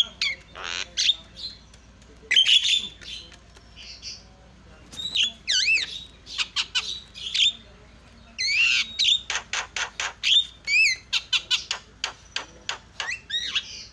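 Javan myna (jalak kebo) calling loudly in a varied run of harsh squawks and bending whistles, with gaps between bursts and a rapid string of short notes about halfway through.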